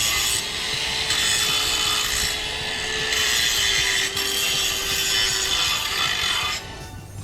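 Cordless power saw cutting through wood in one continuous cut of about six and a half seconds, its motor pitch sagging slightly partway through, then stopping.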